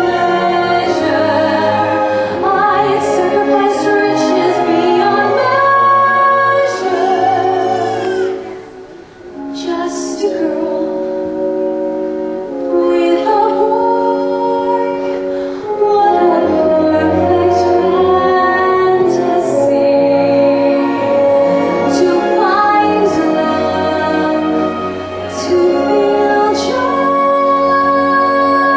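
A woman singing a solo song with musical accompaniment, holding long notes, with a brief quieter passage about eight seconds in.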